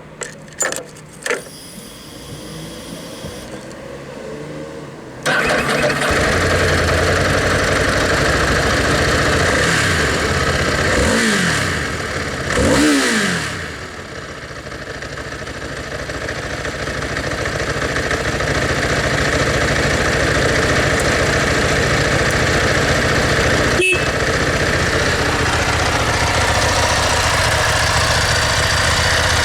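Ducati ST4S motorcycle engine through its stock exhaust. A few clicks come first, then the engine starts about five seconds in and idles. The throttle is blipped twice, around ten and thirteen seconds, and the engine settles back to a steady idle.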